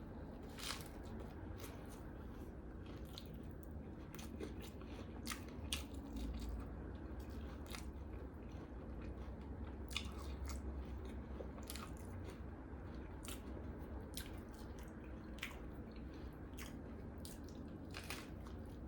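A person chewing and biting a BLT sandwich, with irregular crisp crunches and mouth clicks over a low steady hum.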